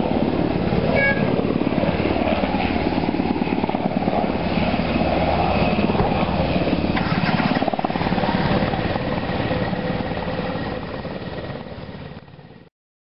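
Military helicopter close by, its engine and rotor chop running loud and steady, then fading over the last few seconds before the sound cuts off abruptly.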